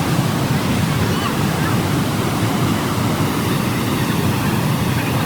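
The loud, steady rush of a large waterfall, Athirapally Falls, its falling water making an even, unbroken roar.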